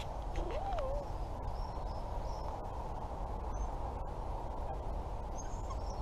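Steady low outdoor background noise by a lake, with a short wavering call about half a second in and a few faint, high bird chirps scattered through.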